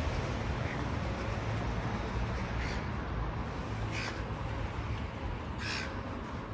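A crow cawing several times, a short call every second or so, over a steady low hum of urban background noise.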